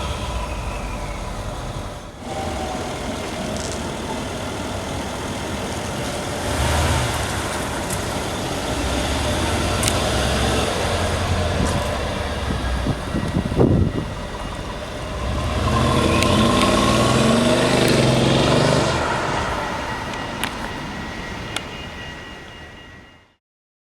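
Mercedes-Benz ML 63 AMG's twin-turbo V8 engine revving and accelerating in several loud pulls, with rising engine pitch, the strongest pull about two-thirds of the way in. The sound cuts off abruptly near the end.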